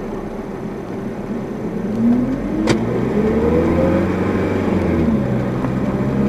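Car engine speeding up: its note rises from about two seconds in and then holds steady. There is a single sharp click in the middle.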